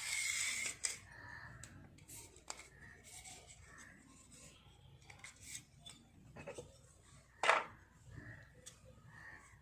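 Close-up sounds of oiled long hair being handled and picked through for lice and nits: a scraping rustle at the start, then scattered faint clicks and rubs, with one sharp click about seven and a half seconds in.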